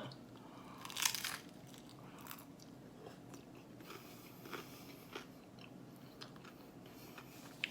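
A bite into a crisp fried Crunchtada tostada shell gives one loud crunch about a second in, followed by fainter, scattered crunches as it is chewed.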